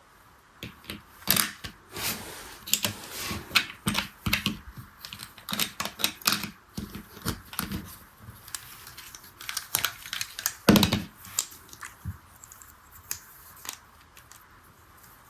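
Rapid, irregular clicks and taps, like small plastic parts of a toy being handled, pressed and set down, with the loudest knock about eleven seconds in.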